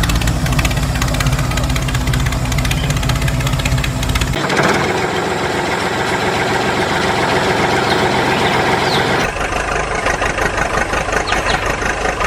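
An engine running steadily. The sound changes abruptly twice, about four and nine seconds in, with short bird-like chirps near the end.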